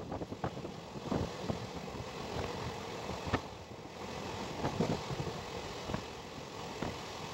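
Passenger train running at speed, heard from an open window of a coach: a steady rush of wind and rail noise with a few sharp clacks from the wheels.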